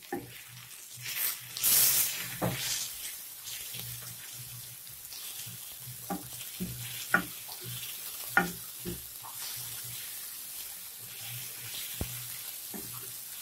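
Chopped onion, tomato and spices sizzling gently on a flat tawa griddle over a very low flame, stirred with a spatula that scrapes and knocks against the pan every second or so.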